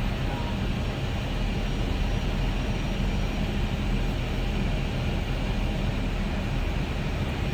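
Steady airflow and engine noise inside an Airbus A320-214's cockpit on short final, just below decision minimums, with the engines at approach power.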